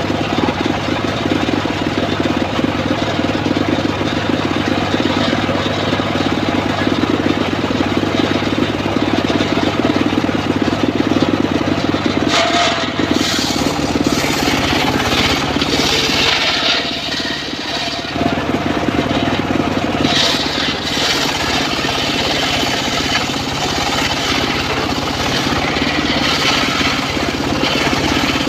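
A homemade engine-driven circular sawmill running steadily. About twelve seconds in, and again about twenty seconds in, the sound turns harsher and brighter for several seconds as the blade cuts through teak.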